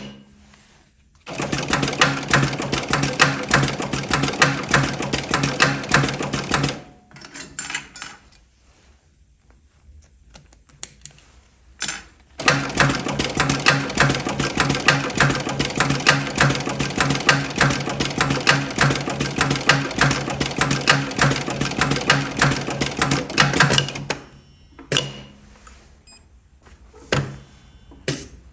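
Electronic pattern post-bed double-needle sewing machine stitching in two runs, one of about five seconds and then a longer one of about twelve seconds, each a fast, even rattle of needle strokes. Short mechanical clicks fall in the pauses between and after the runs.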